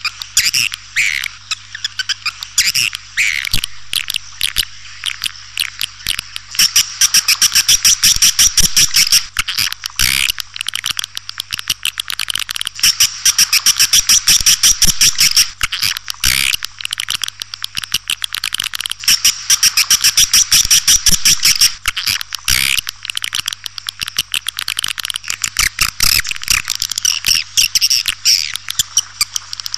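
Swiftlet lure call: rapid trains of high, clicking twitters and chirps, coming in dense spells of a few seconds with sparser chirps between. This is a call recording of the kind played to draw swiftlets to roost and nest.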